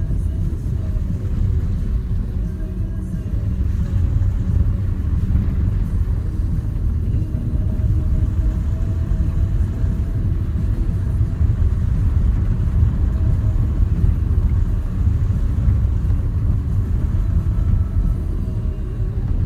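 Steady low rumble of a Renault Duster 4x4 driving, its engine and tyres running at an even pace.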